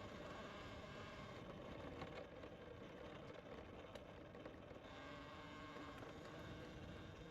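Motorcycle engine running steadily, heard faintly as a low, even hum.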